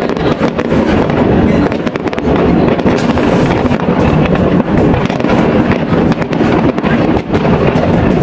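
Fireworks display: a rapid barrage of aerial shell bursts, the bangs coming so close together that they run into one continuous loud crackling rumble.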